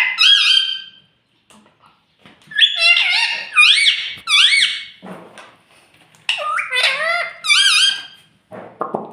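Indian ringneck parakeet calling in high-pitched bursts of quickly rising and falling notes, three main bouts with short pauses between them and another starting near the end.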